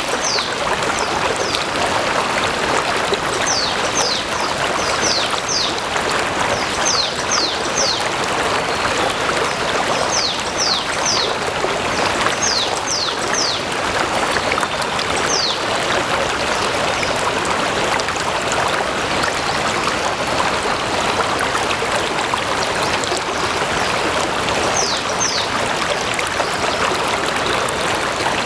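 A stream running steadily, water rushing and trickling. Runs of two to four short, high, falling chirps come through it over the first half and again near the end.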